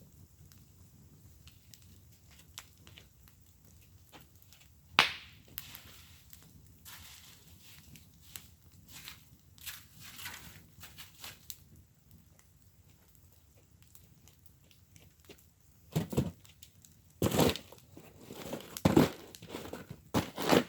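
Burning firewood crackling in a fire pit: a single sharp pop about five seconds in, scattered softer crackles after it, then a run of louder crunching cracks in the last few seconds.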